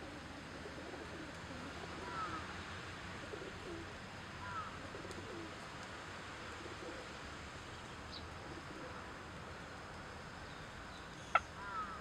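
Birds calling over a steady faint hush: short paired call notes about two seconds in, again about four and a half seconds in and near the end, with low soft calls in between. A single sharp click shortly before the end is the loudest sound.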